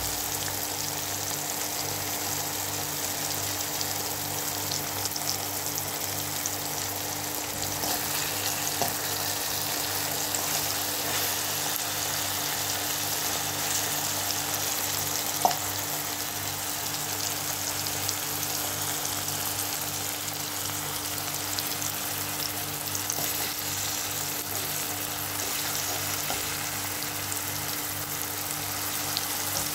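Eggs and tomatoes frying in a pan, sizzling steadily, with a low steady hum underneath. There is a single light tap about halfway through.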